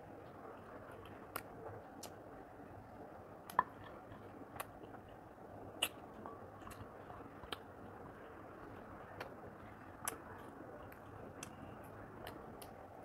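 Close-miked eating: a person chewing chicken curry and rice by hand, with scattered sharp mouth clicks and smacks.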